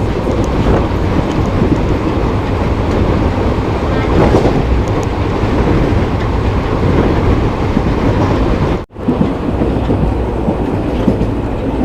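Express passenger train running along the track: a steady rumble of wheels and coach with faint rail clicks. The sound drops out for an instant about nine seconds in.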